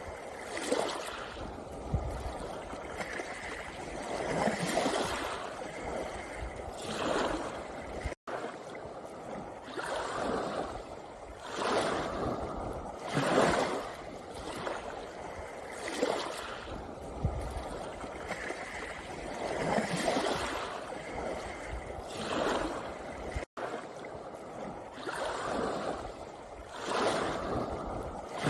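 Small sea waves washing in on a pebble beach, a steady wash with a louder surge every one to three seconds. The sound cuts out for an instant twice.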